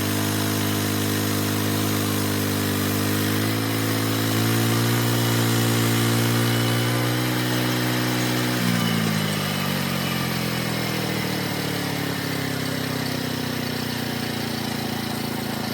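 Homemade sawmill's small engine running steadily. Its pitch rises slightly about four seconds in, then drops at about nine seconds and slows down to a lower, steady running.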